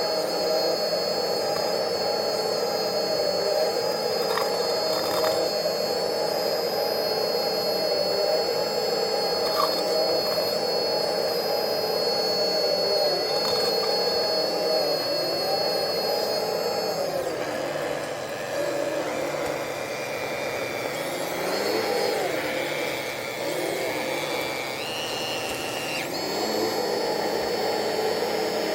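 Radio-controlled model excavators running their electric hydraulic pumps, a steady high whine over a buzzing hum. About two-thirds of the way through, the steady whine drops away and the pitch steps up and down as the machines work, then the steady whine returns near the end.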